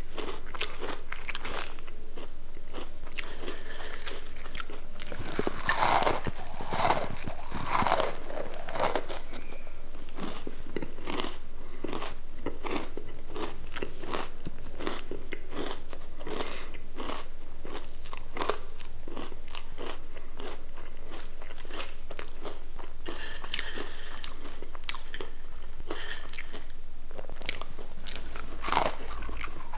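A person biting and chewing crispy potato sticks close to the microphone: a steady run of small dry crunches, with a louder flurry about six to nine seconds in and another loud crunch near the end.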